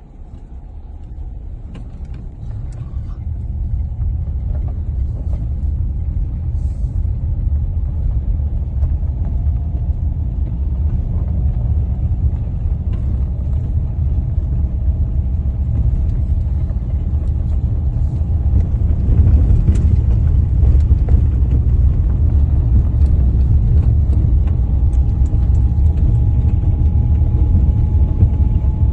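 Steady low rumble of a car driving, rising over the first few seconds and then holding, with a faint high steady whine in the last few seconds.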